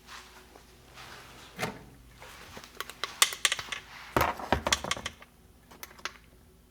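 Light metal clicks and knocks from transmission parts and tools being handled during reassembly. A quick run of taps comes about three seconds in, and a heavier knock a little past four seconds.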